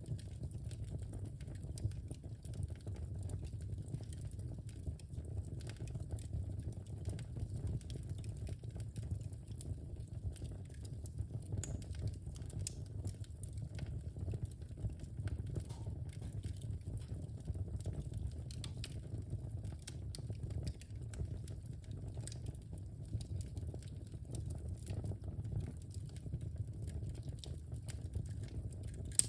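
Wood fire burning in a fireplace: a steady low rumble of the flames with small, irregular crackles and pops throughout.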